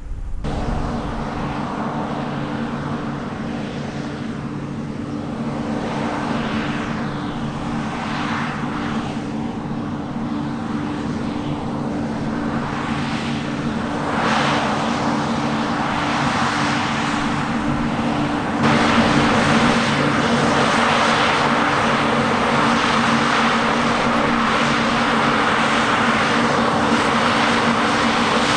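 Heavy diesel harvest machinery running steadily with a constant engine drone under broad mechanical noise, which gets louder about halfway through and again about two-thirds of the way in.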